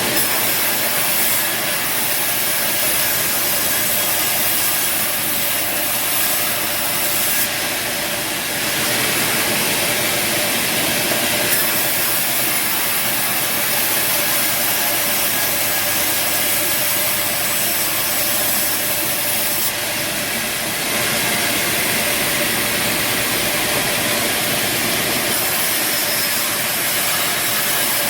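Band sawmill running and cutting timber: a steady machine drone under the hiss of the blade in the wood, the hiss shifting in strength a few times.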